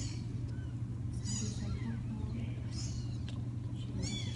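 Young kittens mewing: several short, high-pitched mews, about four in all, over a steady low hum.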